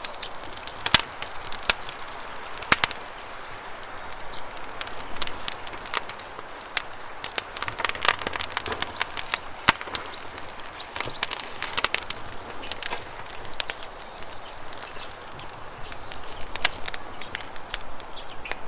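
Campfire crackling, with irregular sharp pops and snaps of burning wood at varying strength, over a steady hiss of running water.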